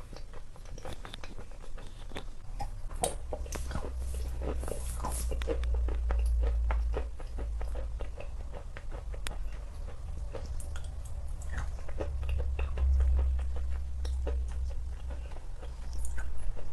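A person chewing a wet bar of chalk close to the microphone, with a dense stream of small crackling crunches. A low rumble swells underneath twice.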